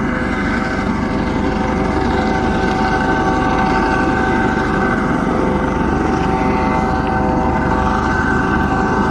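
Coast Guard helicopter hovering over a boat, its engine and rotor running steadily: a constant whine over a dense rumble, loud and unchanging.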